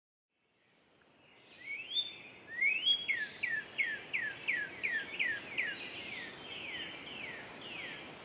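A songbird singing a long run of clear, down-slurred whistled notes, about three a second, loudest in the first half and fainter toward the end. Under it runs a steady, high-pitched insect drone.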